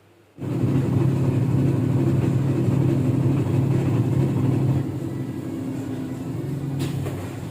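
Whirlpool 6.5 kg fully automatic top-load washing machine running mid-cycle: a steady motor hum that starts abruptly about half a second in and eases somewhat about five seconds in.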